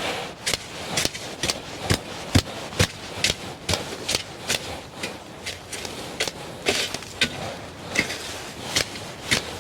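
Hand garden tool striking and scraping the soil in a quick, steady rhythm of sharp strokes, about two a second.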